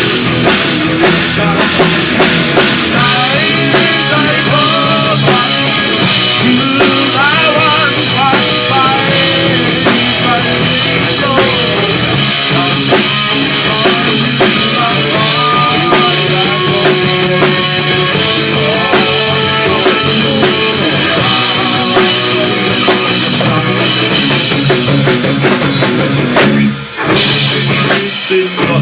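Rock band playing with drum kit and guitar, with a lead line that slides and wavers in pitch over the backing. The band cuts out briefly twice near the end.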